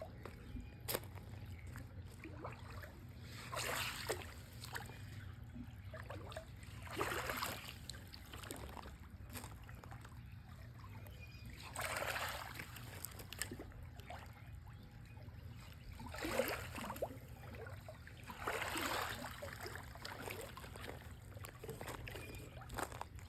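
Pool water swishing and splashing in five separate strokes a few seconds apart, over a steady low hum.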